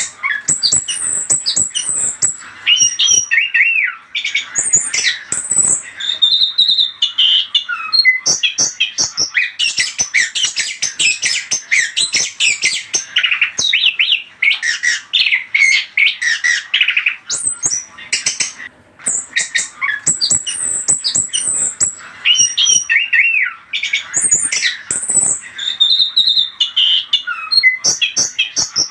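Chestnut-capped thrush (anis kembang) song played as a lure recording: a rapid, varied run of high whistled phrases mixed with harsher notes. The same sequence of phrases comes round again about two-thirds of the way through, as a looped recording does.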